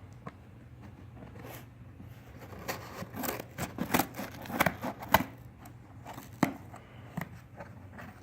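Packing tape and cardboard on the side of a shipping box being cut and torn open: a cluster of sharp scraping and snapping sounds from about two and a half to five seconds in, then a couple of single clicks.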